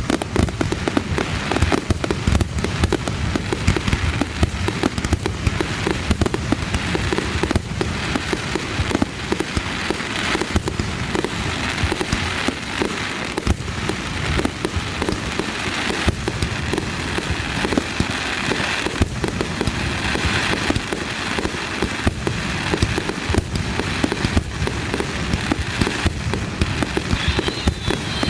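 Aerial fireworks going off in a dense, continuous barrage of overlapping booms and crackling, with a brief high whistle near the end.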